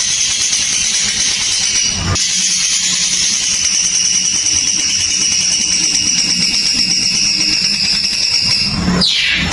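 A long, high, rattling buzz: a call held for several seconds at a time, broken briefly about two seconds in, then sliding down in pitch and stopping near the end.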